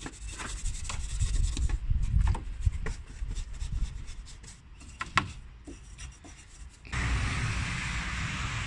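Detailing brush scrubbing degreaser into engine-bay plastics: rough, irregular rubbing with small knocks, louder in the first four seconds and lighter after. A steady hiss starts suddenly near the end.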